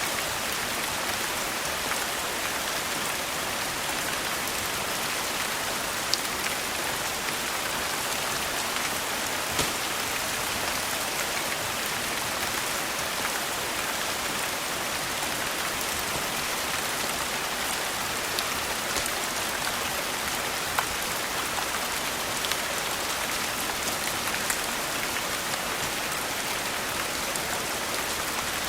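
Steady rain falling, with a few sharp pops scattered through it.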